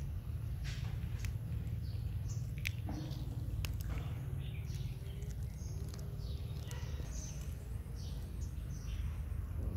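Small birds chirping repeatedly in short, high, mostly falling notes, over a steady low rumble, with a few sharp clicks.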